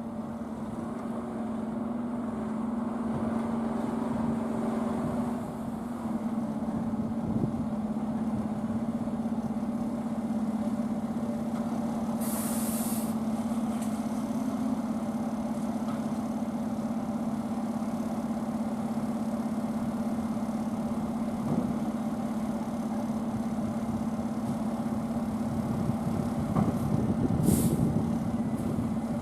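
Fire truck's diesel engine idling with a steady low hum, broken by two short air-brake hisses, one about twelve seconds in and one near the end.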